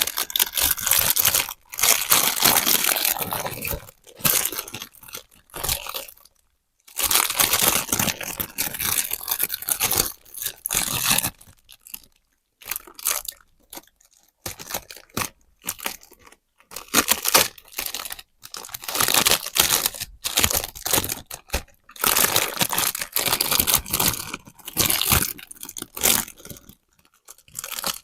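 Toy packaging being torn and crinkled open: irregular bursts of crunching and tearing with short pauses between them.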